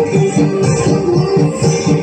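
Loud music played through a large Indonesian 'horeg' parade sound system, with a pulsing bass line and cymbal-like accents.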